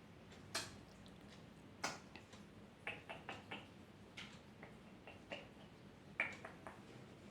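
Faint, irregular clicks and taps from a pet cockatiel being handled, with a quick run of several clicks about three seconds in.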